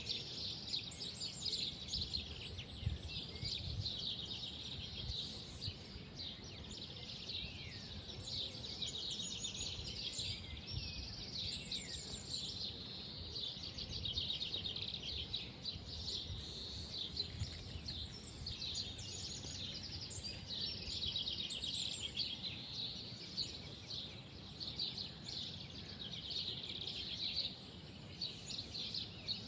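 Many small birds chirping and twittering together without a break, with short rising and falling chirps and fast trills over a low, steady background rumble.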